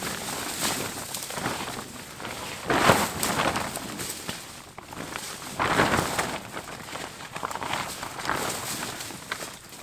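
Irregular rustling and crunching of dry leaves and brush, with two louder crunches about three and six seconds in.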